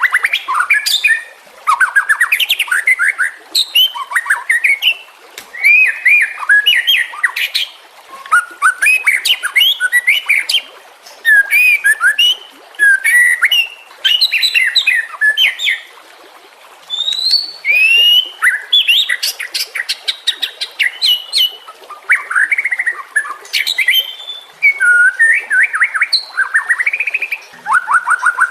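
White-rumped shama (murai batu) singing a long, varied song of rapid whistled phrases and trills, in bursts of a second or two with short pauses between them.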